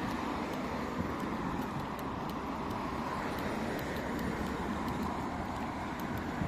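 Steady road traffic noise, cars running along a street.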